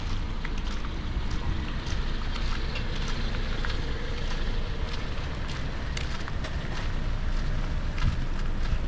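Rain and wind outdoors, with wind rumbling on the microphone and scattered sharp ticks of drops.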